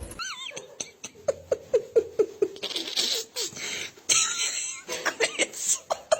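Laughter in short repeated bursts, about four a second, in two runs, opening with a brief wavering high-pitched call.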